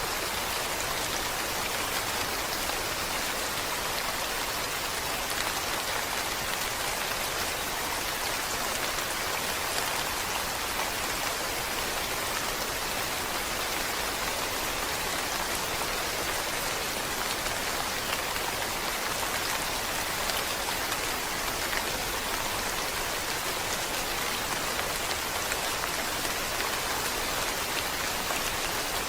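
Steady rain falling, a dense even patter of drops on a surface that does not change.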